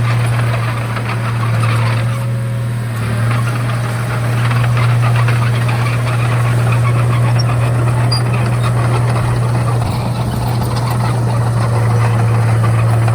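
Komatsu D31A bulldozer's diesel engine running steadily, a constant low hum with a rough rattling noise over it.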